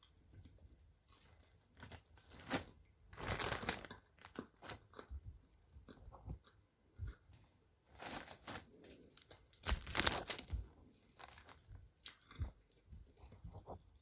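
Someone chewing crunchy food, with irregular crunches that are densest about three to four seconds in and again around ten seconds in.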